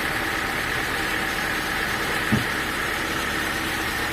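Sawmill machinery running with a steady engine-like drone. A single short low thud comes a little past two seconds in.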